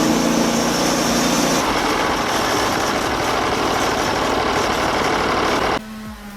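A loud engine running steadily, then cutting off abruptly near the end.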